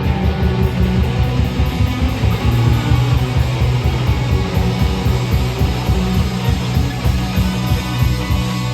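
Live loud rock band playing: distorted electric guitar and bass over a fast, driving drumbeat.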